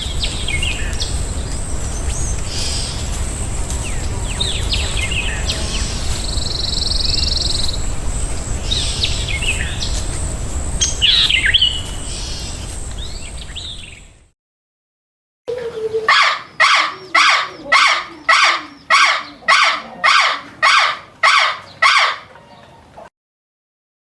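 Small birds chirping and twittering over steady outdoor background noise with a low rumble. After a short break, a loud bird call is repeated about a dozen times, roughly one and a half a second.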